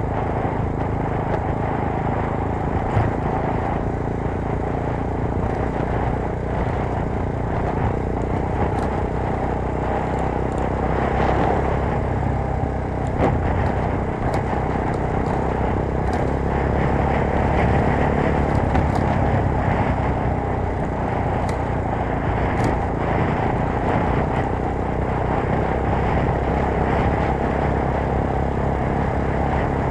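Motorcycle engine running steadily under way, heard together with a continuous rushing noise. The engine note stays fairly even, with small swells in level.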